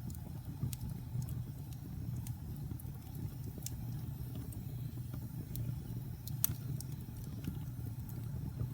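Wood fire burning in a fireplace: a steady low rumble of flames with irregular sharp crackles and pops, one louder pop about six and a half seconds in.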